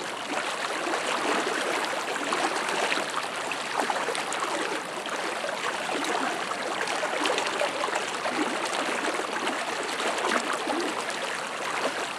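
Rushing water of the flood-swollen Arkansas River, a steady running and splashing noise.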